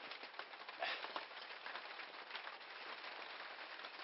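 Steady patter of rain on a shed roof, with one short louder noise about a second in.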